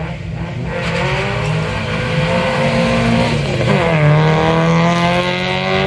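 Rally car engine accelerating hard, its note climbing, dropping briefly with an upshift about three and a half seconds in, then climbing again.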